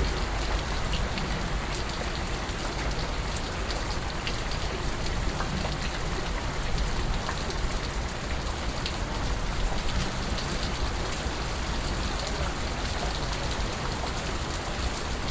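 Steady rain falling, an even hiss with many small drip ticks scattered through it.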